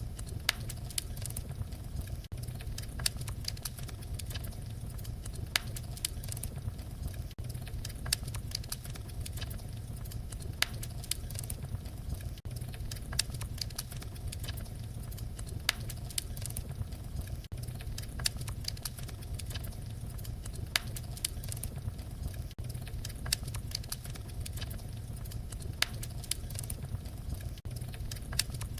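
Wood fire crackling: frequent sharp pops and snaps over a steady low rumble of burning flames, with a brief dip about every five seconds where the recording loops.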